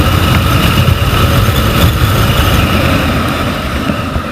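Motorcycle on the move: steady engine and road noise under heavy, rumbling wind buffeting on the helmet-mounted camera's microphone.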